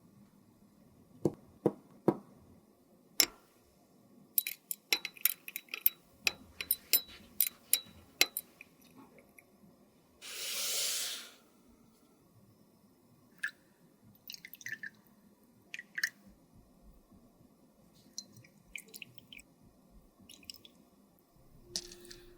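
Close-up handling sounds of makeup repair: a series of sharp clicks and light taps of small containers and tools, and one hiss lasting about a second and a half about ten seconds in.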